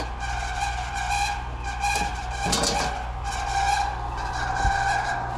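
Air-conditioner condenser fan motor screeching as the unit runs, a high squeal that swells and fades every second or so over the unit's low hum. The squeal is the sign of a condenser fan motor about to go out.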